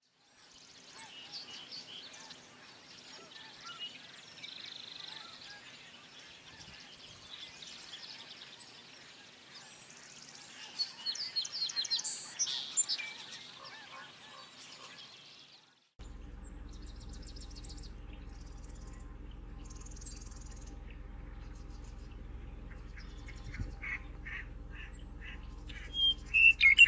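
A wetland chorus of wild birds calling, waterfowl among them, with a quick run of loud calls about halfway through the first part. The sound cuts abruptly to another recording with a steady low hum under scattered chirps, and near the end a series of loud repeated calls.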